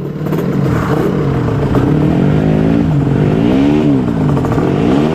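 Trail motorcycle engine running under throttle, revved up and down several times, with the pitch rising and falling most in the second half.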